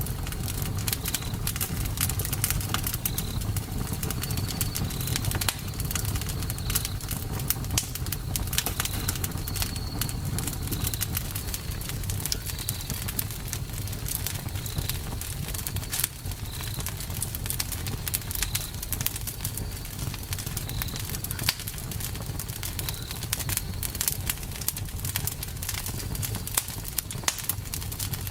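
Campfire crackling and popping steadily over the low rush of the flames. A short high chirp repeats about once a second, mostly in the first half.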